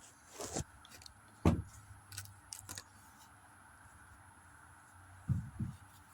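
Scattered knocks and thumps of things being handled: a sharp low thump early on, a few light clicks, and two more thumps near the end.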